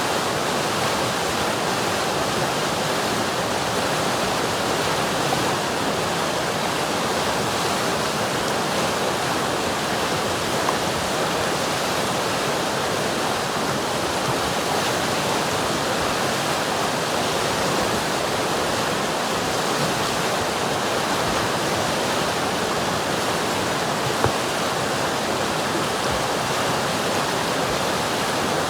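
River water rushing and churning over rocks in a steady, even noise, with two brief louder splashes, one about ten seconds in and one near the end.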